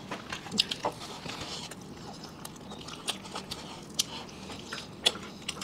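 People chewing mouthfuls of burger, with scattered short mouth clicks and smacks.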